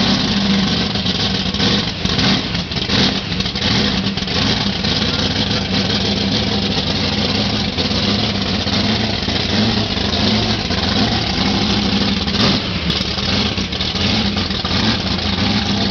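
Supercharged V8 of a Chevrolet Chevelle SS running loud and steady, blipped several times in the first few seconds and again briefly later, as the car pulls away slowly.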